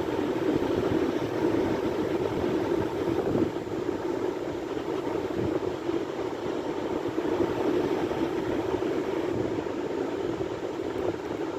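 Sea waves: a steady wash of surf that rises and falls gently in loudness.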